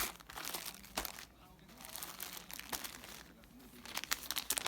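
Irregular crinkling and rustling of material being handled close to the microphone, busiest at the start and again near the end, with faint voices behind.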